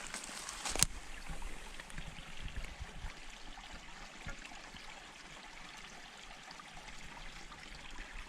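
Small forest creek running, a steady trickling wash of water. A sharp click or knock sounds just under a second in, with a few low thuds over the next couple of seconds.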